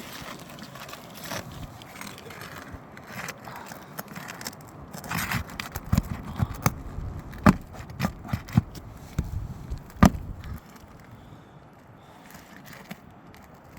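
Roofing nails being pried out from under cracked, tarred-down roof shingles: irregular scraping with sharp clicks and knocks as the tool works under the shingles. It turns quieter about ten and a half seconds in.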